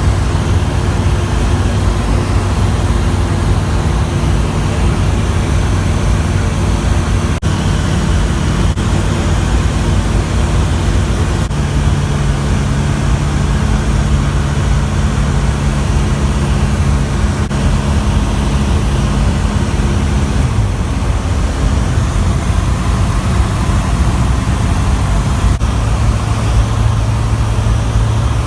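Zodiac 601 light aircraft's engine and propeller droning steadily in flight, heard on board. The drone's pitch shifts slightly about twelve seconds in and again about twenty seconds in.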